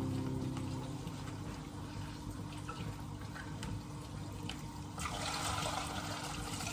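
Running water, louder and brighter from about five seconds in, over faint background music.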